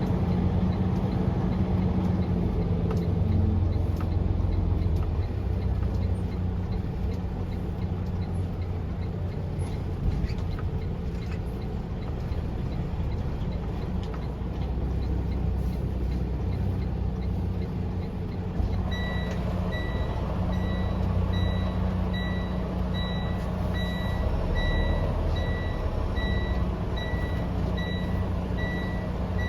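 Semi truck's diesel engine running with a steady low drone. About two-thirds of the way in, a reversing alarm starts, beeping at an even pace.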